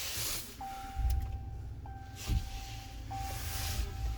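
A steady high electronic tone inside a pickup's cab, starting about half a second in and restarting after short breaks about every second and a quarter, over a low rumble.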